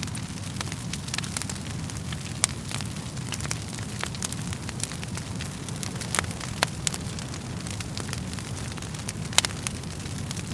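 Wood fire crackling in a fireplace: irregular sharp pops and snaps over a steady low rumble of burning, with a few louder snaps about two and a half, six and nine and a half seconds in.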